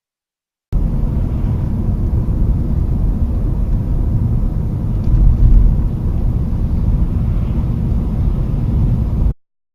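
Car driving, a loud steady low rumble of road and engine noise as picked up by a dash camera; it swells a little around the middle, then cuts off abruptly.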